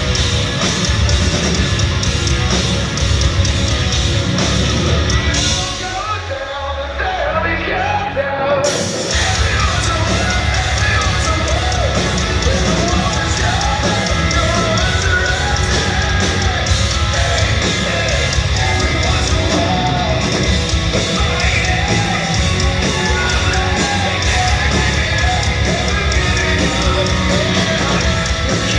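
Hard rock band playing live: distorted guitars, bass and drums with a singer's vocals on top. The band thins out about six seconds in and comes back in at full force around nine seconds.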